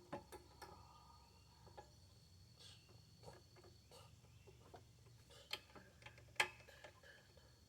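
Faint, scattered clicks and taps of hand tools and metal parts being handled, the sharpest about six seconds in.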